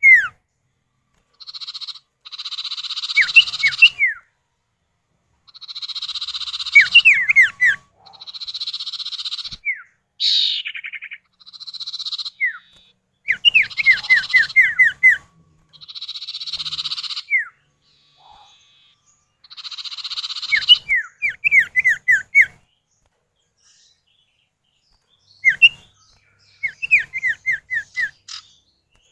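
Common iora (cipoh) male and female calling back and forth: harsh rasping calls about a second long alternate with quick runs of four to six short, falling whistle notes. Near the end only the whistle runs go on, after a brief pause.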